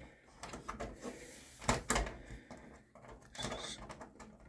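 Small clicks and knocks as a tool is run along freshly glued HO model railroad track to check the rail spacing and press the track down, with one louder knock about two seconds in.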